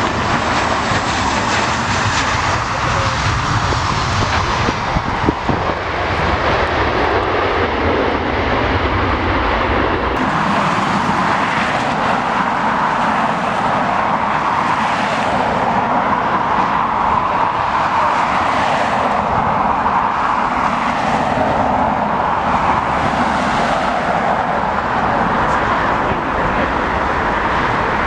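Jet airliner engine noise, steady and loud, with the deep rumble dropping away about ten seconds in and a broad hiss carrying on.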